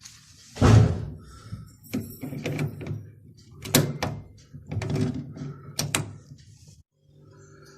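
Knocks, a thump and sharp clicks of hands and tools handling parts at the back of a washing machine, at irregular intervals, the loudest thump about half a second in.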